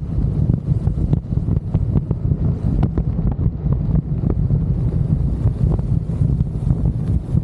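Wind buffeting the microphone on a motorcycle cruising at expressway speed: a steady, fluttering low rumble.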